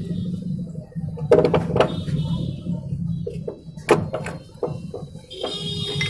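Metal engine parts and hand tools knocking and clinking during hand assembly of an engine: a series of sharp knocks, over a steady low hum. Near the end a steady high tone comes in.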